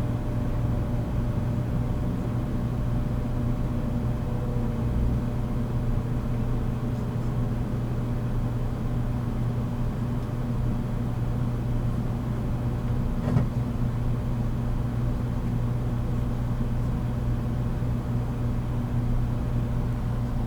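Running sound of a 783 series electric multiple unit, heard from aboard its motor car: a steady hum over wheel and track rumble, with one brief knock about 13 seconds in.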